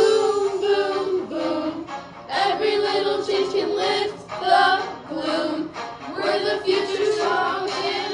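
A group of girls singing together in unison over a pop backing track.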